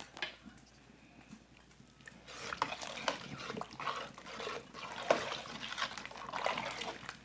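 Wet sloshing and scraping of canjica, hominy in sweetened milk, being stirred in a large pot. It starts about two seconds in and goes on in irregular small clicks and splashes.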